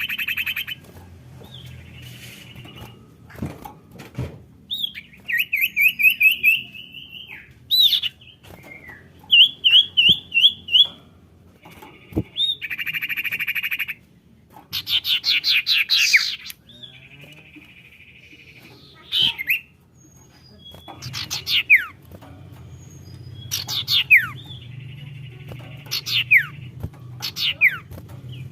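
Sirtu (common iora) calling and singing in a varied sequence: buzzy churring notes, fast chattering trills and sharp falling whistles, repeated over and over in the manner of a lure call.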